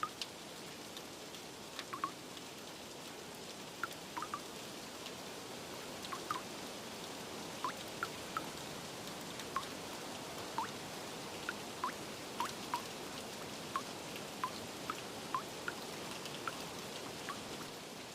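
Steady rain hiss with water drips plinking at irregular intervals, each short and falling slightly in pitch.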